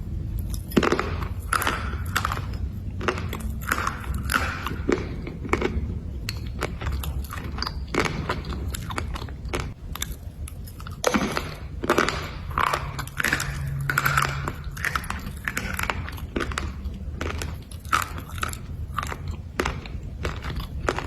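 Black slate bars being bitten and chewed: a run of irregular crunches and grinding chews.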